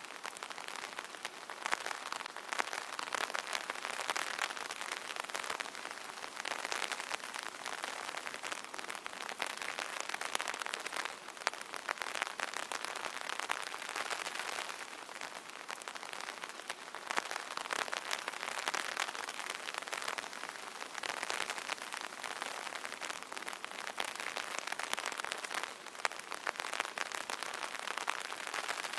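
Light rain pattering on a fabric umbrella canopy: a dense, continuous spatter of small drop ticks that swells and eases every few seconds.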